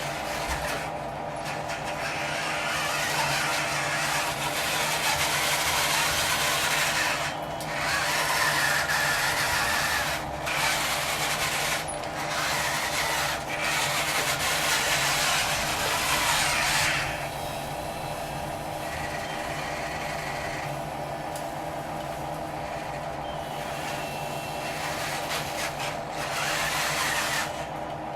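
Radio-controlled model construction machine running: a steady whine of its motor and hydraulic pump. Over it come stretches of loud hissing, scraping noise that stop and start abruptly, mostly in the first half.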